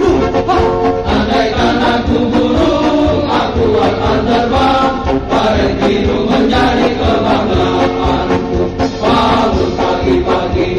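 A group of male voices chanting a marching song in unison.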